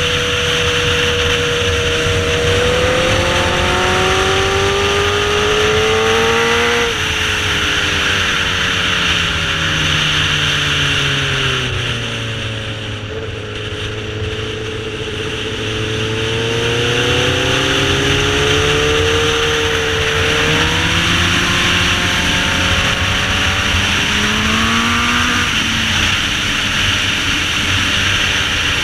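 Sportbike engine revving up through the gears. The pitch climbs and drops abruptly at each upshift, then winds down slowly as the throttle is rolled off into a corner without braking, and climbs again. A steady rush of wind runs underneath.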